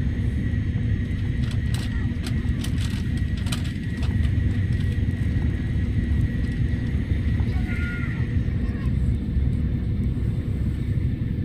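Steady running rumble inside a Tokaido Shinkansen carriage at speed, with a faint steady whine above it and a few light clicks about two to four seconds in.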